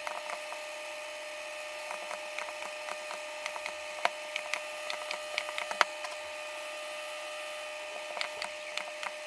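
Irregular sharp clicks and ticks as nickel strip is being welded onto the battery pack's lithium cells, with a steady high hum underneath.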